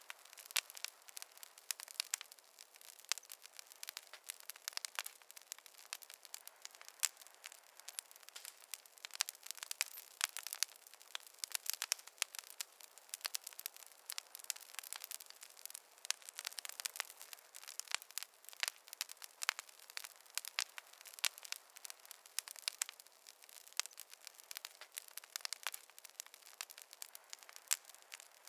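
Campfire burning, with a steady run of small, irregular crackles and pops from the burning wood over a soft hiss.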